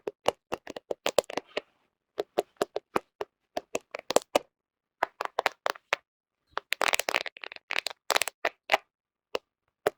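Fingernails tapping and scratching on a smartphone camera close to the microphone: sharp clicks in quick, irregular runs with short pauses, packed most densely about seven seconds in.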